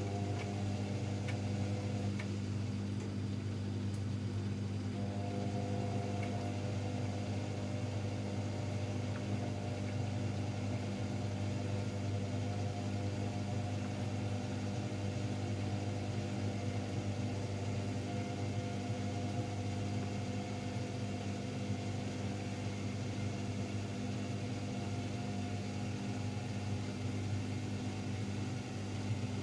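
AEG Electrolux Lavamat L74810 washing machine running with a steady motor hum; some higher tones in the hum creep slowly upward in the second half.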